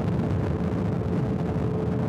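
Motorcycle engine running at a steady highway cruising speed, with a constant hum and road and wind noise and no change in revs.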